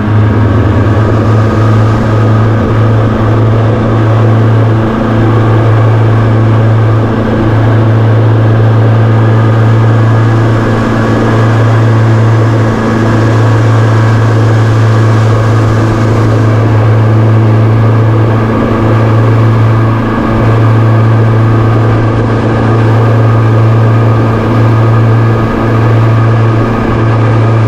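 Fishing boat's engine running steadily at speed, a loud even drone under way.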